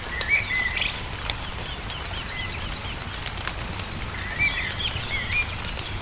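Small songbirds chirping in short, wavering phrases over the sharp snaps and pops of a crackling wood fire, with a low steady rumble underneath.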